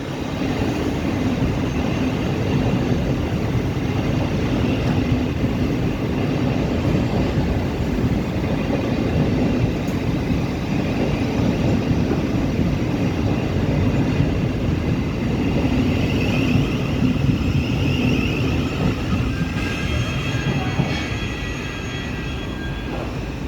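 Siemens Desiro City (Class 700) Thameslink electric train running through the station without stopping: a steady, loud rumble of wheels on rail. Thin high-pitched squealing tones come in near the end, and the rumble eases off as the train clears the platform.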